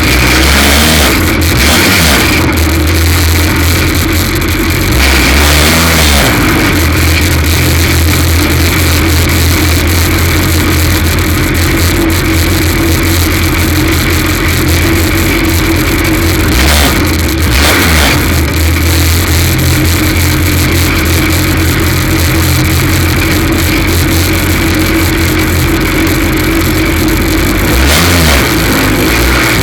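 F2 stock car racing engine running hard and steady under load, dropping in pitch and picking up again about four times. It is running with a misfire from a cracked spark plug.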